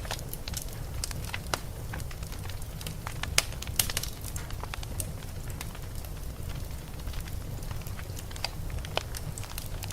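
Wood fire crackling with irregular sharp pops, a few louder snaps a little over three seconds in, over a steady low rumble of blizzard wind.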